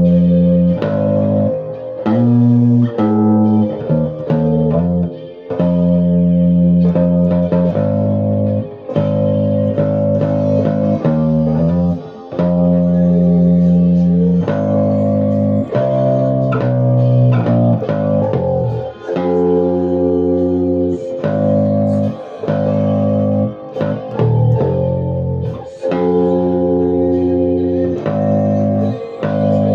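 Guitar music: plucked guitar with strong low notes, held chords and notes changing every second or two, with brief breaks between phrases.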